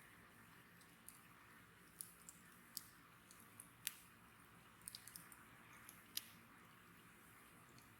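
Wood bonfire crackling faintly: irregular sharp pops and snaps over a soft steady hiss, the loudest pops about four and six seconds in.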